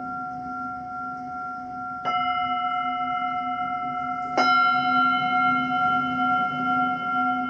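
Singing bowls ringing, struck twice, about two and four and a half seconds in; each strike adds a bright ringing tone over a steady lower hum that pulses slowly.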